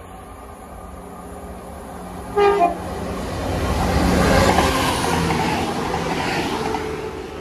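A train sounds a short horn blast about two seconds in, then passes the platform, its rushing wheel and engine noise swelling and fading away.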